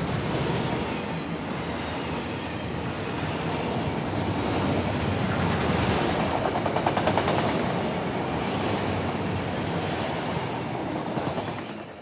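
Norfolk Southern freight train cars rolling past, wheels clicking over the rail joints with a steady rumble, fading out sharply near the end.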